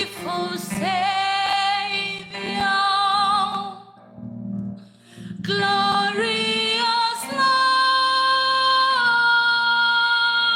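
A woman singing a slow worship song in long held notes with vibrato, with a short break partway through and a final long note that steps down in pitch, over a steady low accompaniment.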